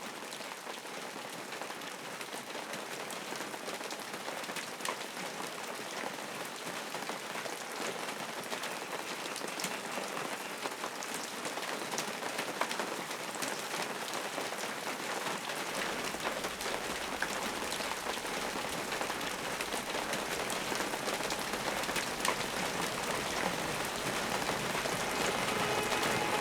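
Steady rain-like hiss with many light, scattered patters, slowly growing louder.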